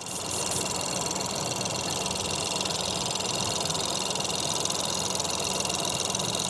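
Ford Fiesta 1.0 EcoBoost three-cylinder turbocharged petrol engine idling steadily.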